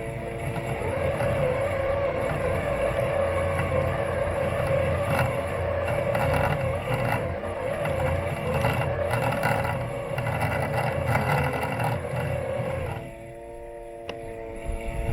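Robot lawn mower's electric motors running with a steady whine, heard from on board the mower. From about half a second in it grows louder and rougher, with a low rumble and rattle, and about thirteen seconds in it drops back to the plain steady whine.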